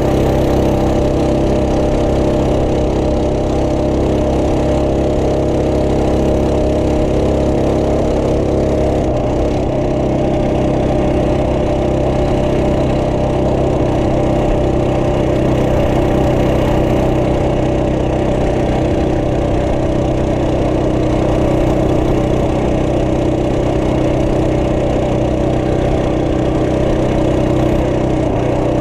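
Trail Master MB200 minibike's 212cc single-cylinder engine running steadily at an even engine speed, with only a slight change in pitch about nine seconds in.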